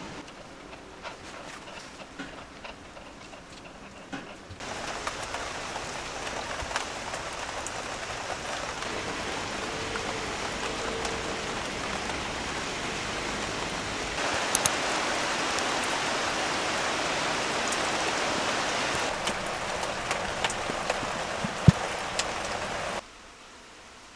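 Food sizzling in a hot pan, a steady crackling hiss with scattered pops. It gets louder about a third of the way in and again midway, then cuts off abruptly near the end.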